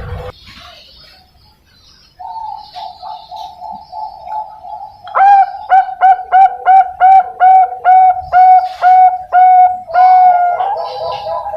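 Young zebra dove (Bangkok-type perkutut) singing: a quick run of soft notes, then a series of about fourteen loud staccato coos at roughly three a second, ending on a longer held note.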